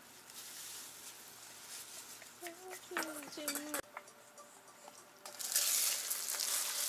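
An egg-soaked slice of bread is laid into a hot, oiled nonstick frying pan and starts sizzling suddenly about five seconds in. Before that there are light clinks of chopsticks against a steel mixing bowl.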